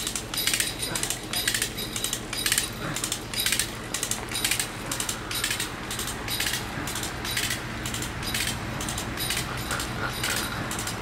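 Felling wedges being hammered into the cut of a large tree: sharp metallic strikes about twice a second, with a steady low engine hum underneath.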